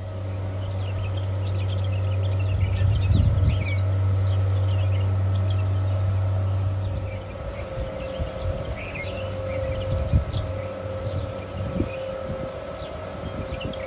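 Many small birds chirping in short, quick calls over a steady low hum. The hum drops away about halfway through, and a few low thumps come through.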